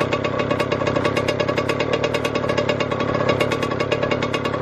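Two-stroke 85cc dirt bike engine running steadily, a rapid even train of firing pulses.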